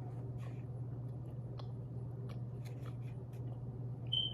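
Faint chewing and soft mouth clicks from eating pizza, over a steady low hum. A brief high-pitched tone sounds about four seconds in.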